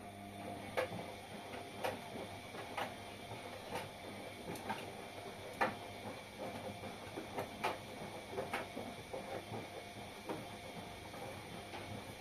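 Washing machine running a wash cycle: a low motor hum with light clicks and knocks about once a second as the drum turns the laundry.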